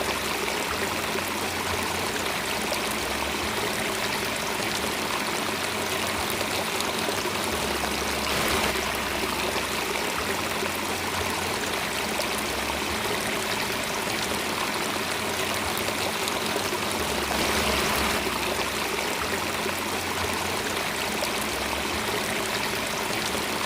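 Running water of a stream, a steady babbling rush that swells slightly twice.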